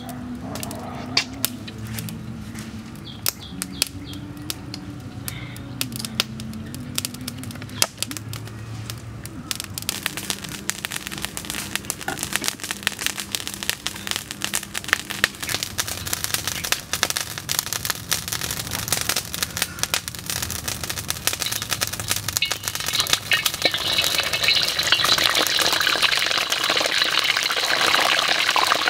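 Food frying in hot oil in a steel wok, a crackling sizzle that builds over the second half and is loudest near the end.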